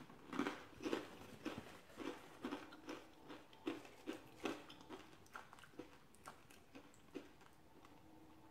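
Faint close-up chewing of a mouthful of Frito corn chip with cheesy chili: soft crunches and wet mouth clicks about twice a second, thinning out near the end.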